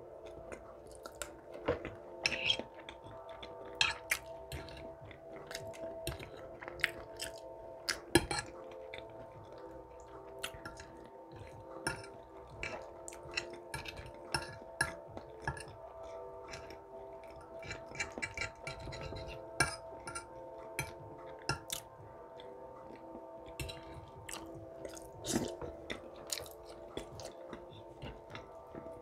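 Close-miked chewing of a breakfast of bacon, sausage, eggs and beans: wet, irregular mouth clicks and smacks, with now and then a louder click.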